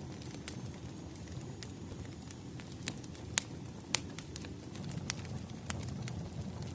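Wood fire crackling: irregular sharp pops and snaps over a low steady rush of burning logs, with the two loudest snaps in the middle.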